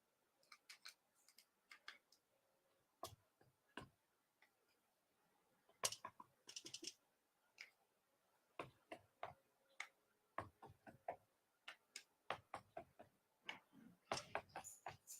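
Faint, irregular clicks and taps of paint tools and containers being handled while working on a canvas, with a small flurry of clicks about six seconds in and again near the end.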